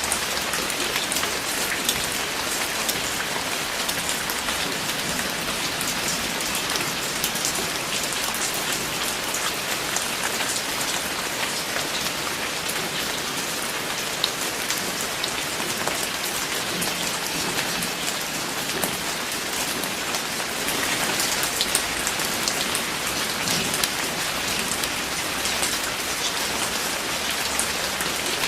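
Steady rain falling, with many close individual drops pattering on a surface, a little heavier about two-thirds of the way through.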